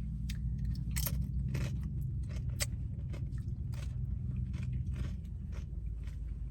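Close-up chewing and crunching of crunchy food, many small irregular crunches, over a steady low hum.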